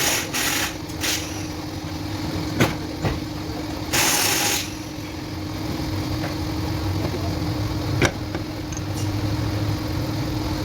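A car engine idling steadily, with two short hisses, one at the start and one about four seconds in, and a few sharp metallic clicks, the loudest near eight seconds.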